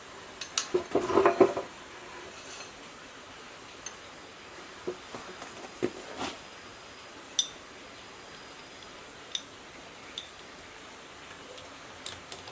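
Metal tools and parts clinking and knocking as they are handled during engine repair work. A quick cluster of knocks comes about a second in, then single sharp clinks every second or two.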